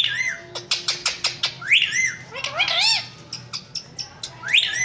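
Pet parrot calling: repeated short whistled calls that rise and fall in pitch, several in quick succession near the middle, with a run of quick clicks between them in the first half.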